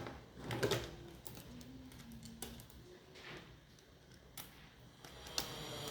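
Light clicks and taps of a drive being handled and fitted into a computer case's drive bay, a few scattered knocks about half a second in and again around three, four and five seconds.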